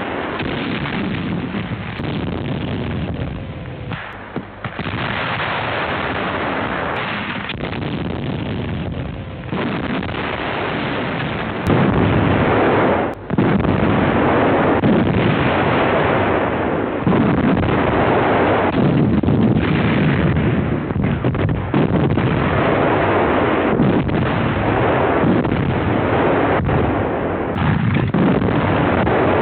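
German field artillery firing repeatedly, shot after shot running into one another in a loud, continuous din, on an old wartime film soundtrack with the high end cut off.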